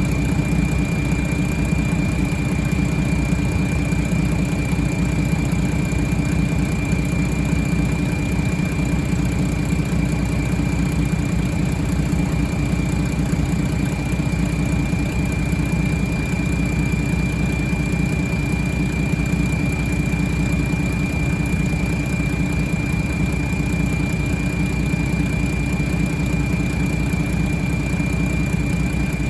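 International A26 inline-six diesel engine idling steadily, with a thin high whine running over the low engine rumble.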